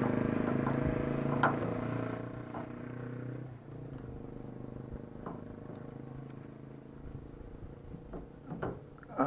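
A vehicle engine running, loudest at first and fading over the first few seconds, with scattered light knocks and clicks.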